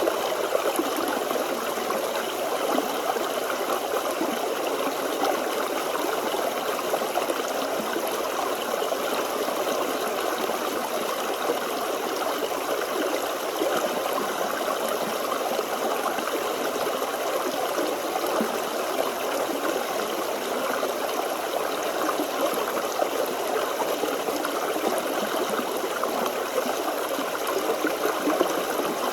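A small forest stream running steadily over stones, a constant splashing and gurgling flow.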